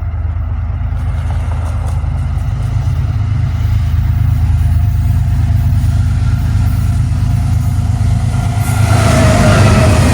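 Diesel locomotives of a CSX intermodal freight train running as the train approaches, a deep steady engine drone growing louder. About nine seconds in, a rush of wheel and rail noise with a falling tone comes in as the lead locomotives pass close by.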